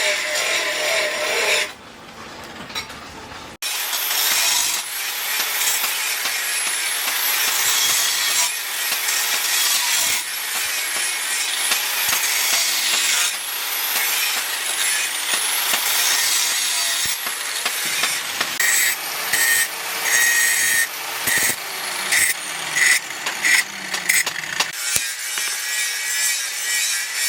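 Rhythmic scraping strokes of a hand tool being worked back and forth, drawn long and even about every two seconds, then shorter and choppier in the last third. A brief quieter stretch near the start ends in an abrupt cut.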